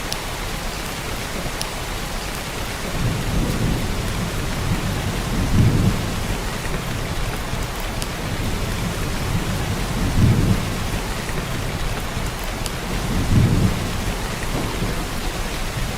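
Heavy downpour of rain, a steady dense hiss, with low rumbles swelling and fading about four times.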